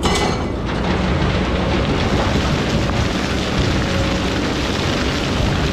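Excavator diesel engine running steadily under a loud rushing noise, with a sharp metallic knock right at the start.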